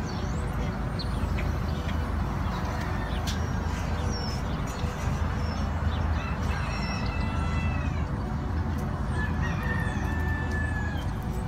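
Rooster crowing, two long calls in the second half, over steady low background noise with a few light clicks.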